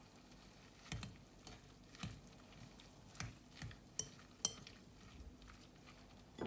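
Cutlery and dishes being handled: a series of light clinks and taps, about eight in all, irregularly spaced, a few of them ringing briefly.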